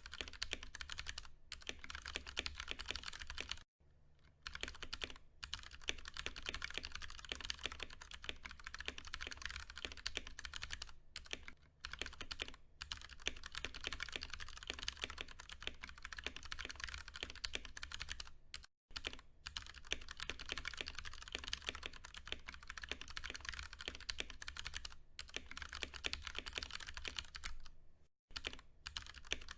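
Steady, fast typing on a Ducky One 2 Mini mechanical keyboard with tactile Cherry MX Brown switches: a dense run of keystroke clacks, broken by a few short pauses, about four seconds in, near the middle and near the end.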